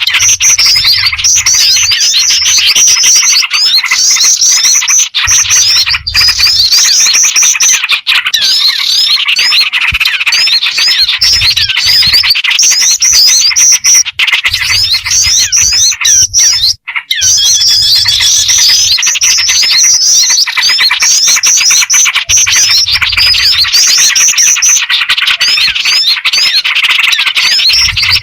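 Bird-lure recording: a loud, dense, continuous mix of small-bird chirps and rapid calls, layered with jingjing batu (black-winged flycatcher-shrike) and trucukan (yellow-vented bulbul) calls. It breaks off for a moment about two-thirds of the way through, then resumes.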